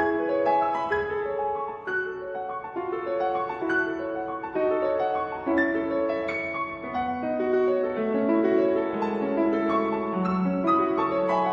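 Instrumental piano music: a run of single notes and chords at a moderate, even pace, with no singing.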